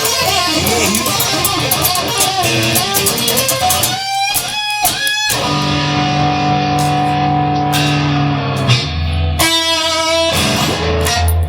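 Electric guitars playing rock music with bass: a busy run of guitar notes, then a couple of sharp stops and long held chords over a low bass note.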